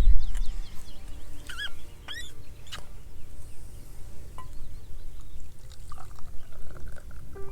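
A few short bird chirps in open countryside, two of them about one and a half and two seconds in, over quiet outdoor ambience and faint sustained background music; chime-like music notes come in near the end.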